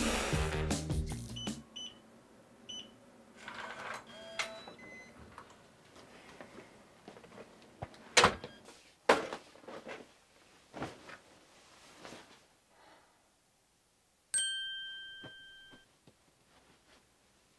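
Background music cuts off within the first two seconds, followed by a few quiet knocks and rustles and two sharp thuds about eight and nine seconds in. About fourteen seconds in, a smartphone message notification chime sounds: one bright electronic ding that rings out over about a second and a half.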